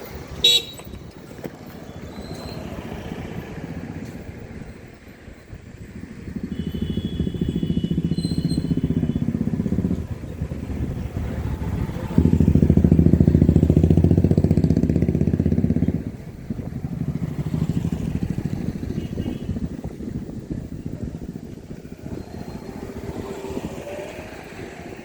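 Passing motor traffic: engine noise swells and fades several times, with the loudest pass about halfway through. A horn sounds briefly about a third of the way in.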